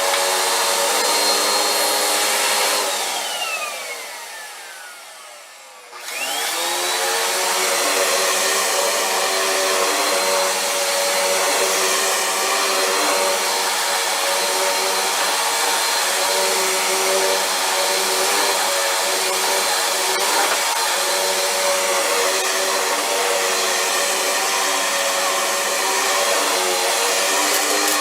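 Vacuum cleaner running with a steady high whine; about three seconds in it is switched off and the motor spins down, its whine falling, then about three seconds later it is switched back on, whines up to full speed within a second and runs steadily again.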